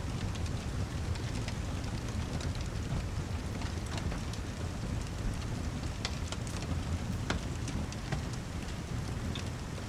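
Steady heavy rain, with a constant low rumble underneath and many scattered sharp ticks throughout.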